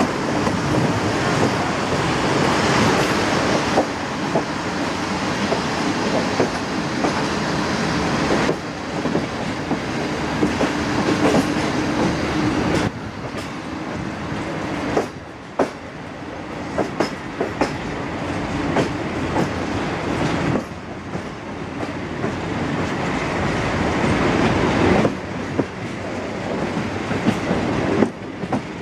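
Diesel-hauled passenger train running along, heard from an open coach window: a steady rumble and rush of air, with wheels clicking over rail joints, the clicks thickest in the middle stretch.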